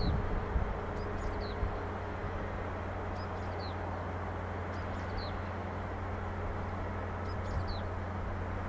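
A bird gives a short, high, falling call five times over the open-air background. Under it runs a steady low rumble.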